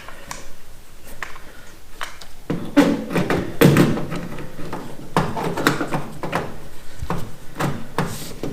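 Irregular metal knocks, clunks and scraping as a dent-pulling tool is worked on a dented steel car fender, the loudest stretch about three to four seconds in.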